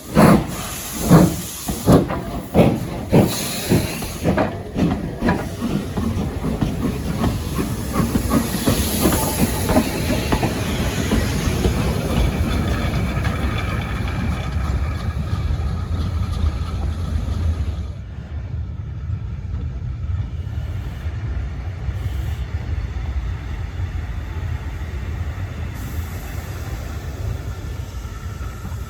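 Steam locomotive pulling away: sharp exhaust beats, slow at first and coming steadily faster, with hissing steam. The beats then merge into a steady low rumble of the moving train, which drops quieter about two-thirds of the way in.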